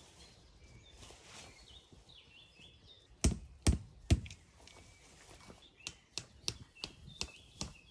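Birds chirping in the background, with three sharp knocks a little over three seconds in and a run of lighter clicks and taps after them.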